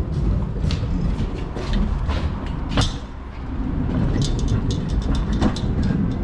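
Heavy lorry's engine rumbling, with scattered knocks and rattles and a quick run of light ticks near the end.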